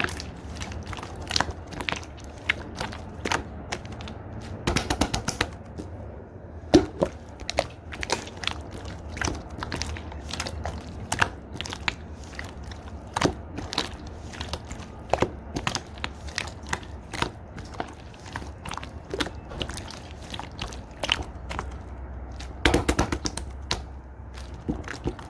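Yellow and orange slime being squeezed and mixed by hand, giving a run of irregular sticky clicks and pops, with denser bursts of popping about five seconds in and near the end.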